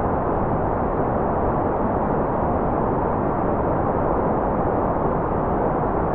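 Continuous white noise: a steady, even hiss, dull and heavy in the low end, with no changes or breaks.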